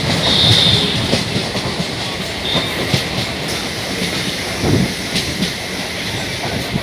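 Chennai suburban electric train running, with a steady rumble and wheels clicking irregularly over rail joints. A brief high-pitched wheel squeal comes just after the start, and a shorter one about two and a half seconds in.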